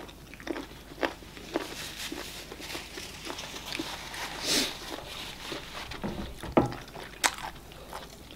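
Eating sounds of eba and okra soup with meat eaten by hand: wet mouth clicks and lip smacks of chewing, with a brief breathy swell about four and a half seconds in and a dull knock about six and a half seconds in.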